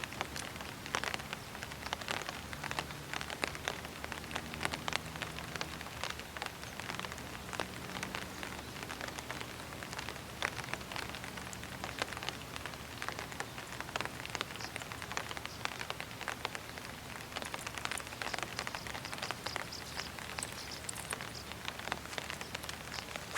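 Light rain (drizzle) falling. There is a steady hiss with many small drops ticking irregularly.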